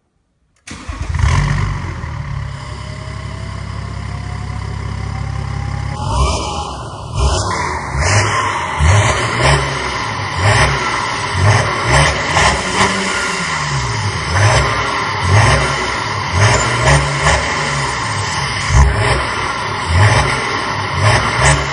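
BMW X6 (E71) xDrive40d's twin-turbo 3.0-litre straight-six diesel, breathing through an aftermarket exhaust, starting up and idling steadily for about five seconds. It is then revved in repeated short throttle blips, about one a second.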